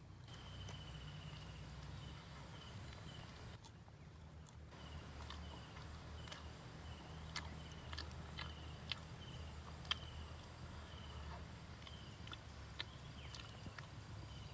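Steady high-pitched insect chorus with a row of short repeated chirps, and a few sharp clicks scattered through it. The chorus drops out for about a second roughly three and a half seconds in.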